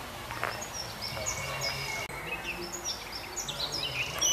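Small birds chirping, a run of short high notes that often drop in pitch, growing busier toward the end, over a steady low background noise.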